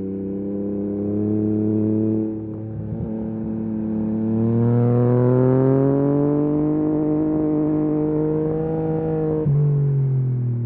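Yamaha MT-09 SP's inline three-cylinder engine through a full Akrapovič race exhaust, pulling with its pitch rising steadily over several seconds. Near the end the pitch drops suddenly as it changes up a gear.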